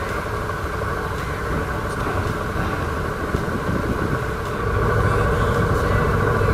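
A motorcycle running on the road, a steady engine and road rumble that gets louder about two-thirds of the way in.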